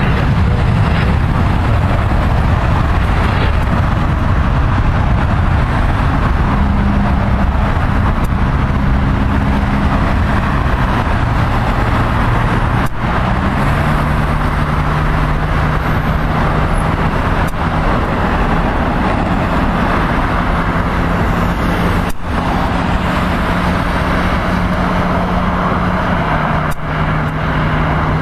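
Loud, steady motor vehicle noise: a low engine drone over a rushing haze, its low tone stepping up in pitch a couple of times.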